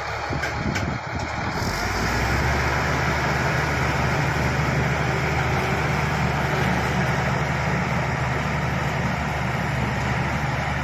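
Shantui SD16 bulldozer's diesel engine working under load, pushing fill. It grows louder about two seconds in and then runs steadily, with a few sharp clicks in the first second.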